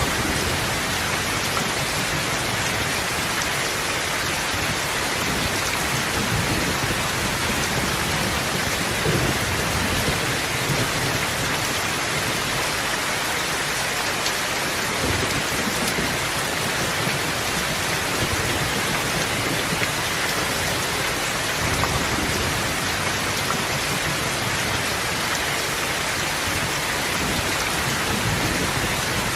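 Steady, dense rainfall: an even hiss of many drops with no break, and a low rumble that swells and fades underneath.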